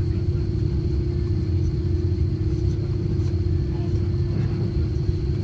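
Steady low rumble inside an airliner cabin, with a constant droning hum over it from the aircraft's engines or air-conditioning.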